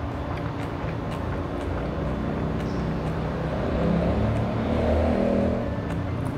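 Close-miked chewing of a mouthful of chicken burger, over a steady low rumble that swells about four seconds in and eases off shortly before the end.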